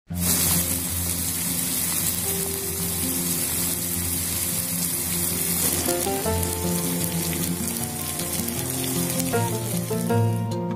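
A pan of eggplant curry sizzling steadily, with background music underneath that grows more prominent about six seconds in. The sizzling drops away near the end.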